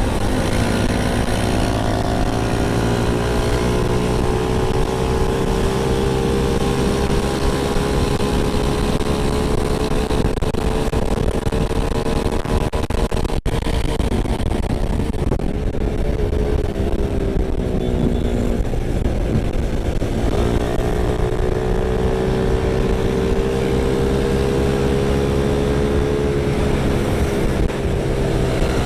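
Yamaha Vega Force Fi 115 underbone motorcycle's single-cylinder four-stroke engine running under way, with wind rush over the microphone. The engine note climbs slowly for about twelve seconds, dips briefly, falls away, then climbs again before easing off near the end.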